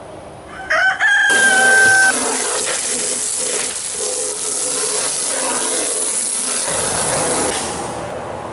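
A rooster crows once, about a second in: a rising call that then holds steady. It is followed by several seconds of rough, hissing noise that fades near the end.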